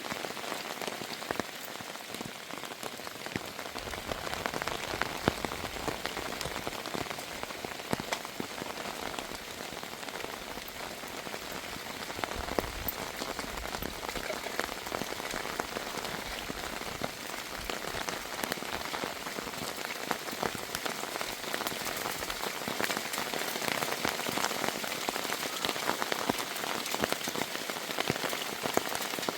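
Heavy rain falling steadily, a dense hiss full of individual drop ticks.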